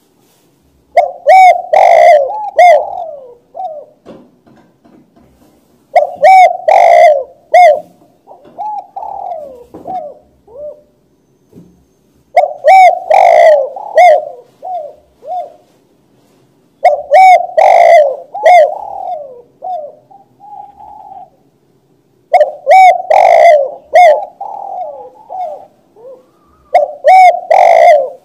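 Spotted dove (tekukur) cooing: six repeated phrases about every five seconds, each a loud burst of low coos followed by softer trailing notes. The loudest notes are close and distort.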